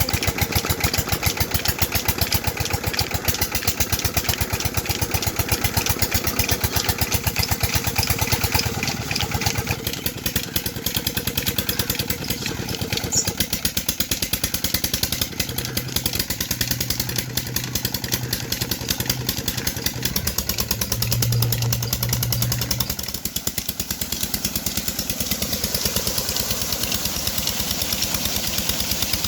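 Petter diesel engine running steadily, its rapid, even firing beats going on without a break.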